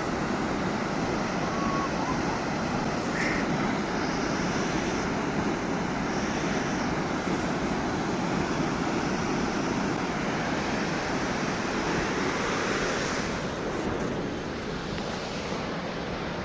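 Steady roar of Thomson's Falls, a 74-metre waterfall: a dense rushing noise that eases slightly near the end.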